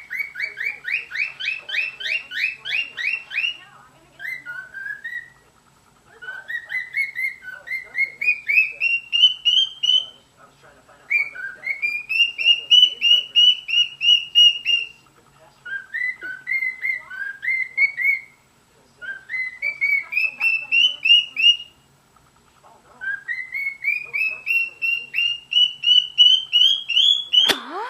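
Cockatiel singing: about seven phrases of quick whistled notes that climb in pitch, each phrase a few seconds long with short pauses between. A sharp click sounds just before the end.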